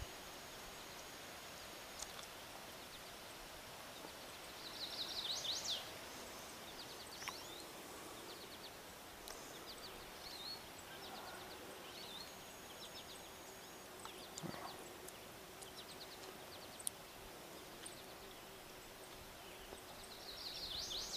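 Quiet outdoor meadow ambience: scattered high songbird chirps, with a fast trill of high notes about five seconds in and again near the end, over a faint steady hiss. A faint steady low hum runs through the second half.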